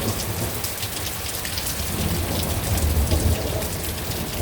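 Heavy rain falling steadily, with a low thunder rumble that swells about two seconds in, strong enough to be rumbling the house and patio.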